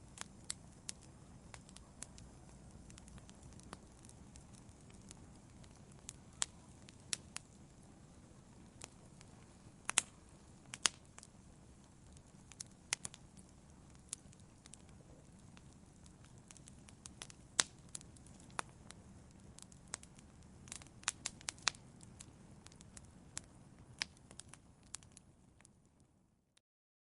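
Wood fire burning in a fireplace: a steady low rumble of flames with sharp, irregular crackles and pops. It fades out to silence near the end.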